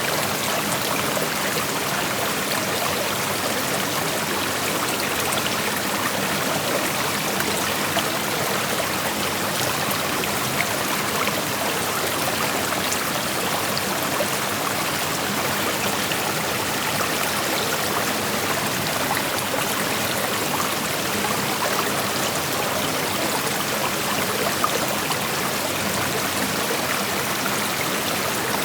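Creek water flowing and rippling over stones: a steady, even rushing with small trickling splashes.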